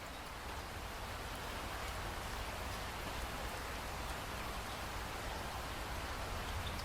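Steady rainfall, an even hiss of rain on surfaces with a few separate drops ticking.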